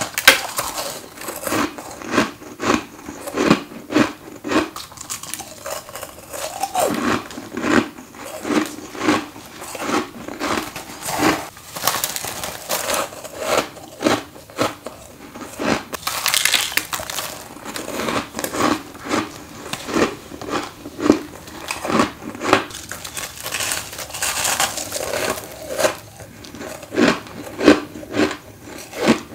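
Close-miked bites into chunks of built-up freezer frost: a run of sharp, crisp crunches about every one to two seconds, each trailing into brittle crumbling as the frost breaks apart.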